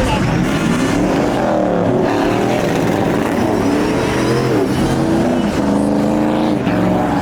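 A vehicle engine revving hard, its pitch swinging up and down several times and held steady for about a second near the end.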